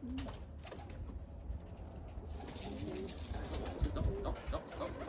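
Racing pigeons cooing in low, warbling calls, once at the start and again about halfway through, over a steady hiss. A few low thumps come near the end.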